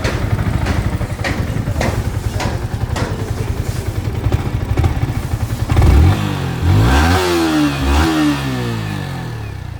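Yamaha R15 V4's single-cylinder engine running at idle. From about six seconds in it is revved in a few quick throttle blips, its pitch rising and falling, then it drops back toward idle near the end. This is a sound check after fitting a GSX-R ignition coil and refilling the coolant.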